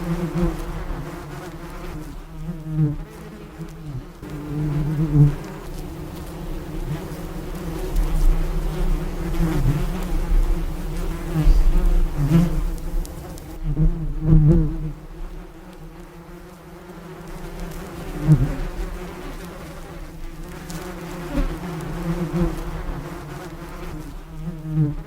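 A bee buzzing in flight: a steady low hum that swells and fades again and again, now and then bending slightly in pitch.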